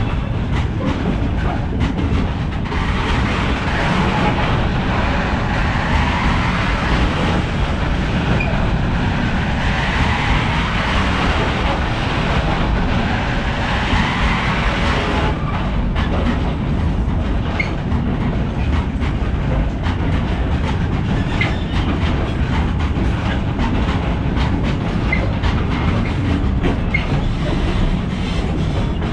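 Freight train rolling past, a steady loud rumble of wagons with wheels clicking over the rails, a stronger hiss for the first half and a few brief squeaks later on.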